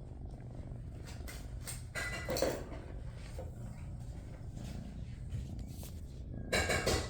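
Kitten purring steadily close to the microphone, a continuous low rumble. Two brief louder sounds break in, about two seconds in and near the end.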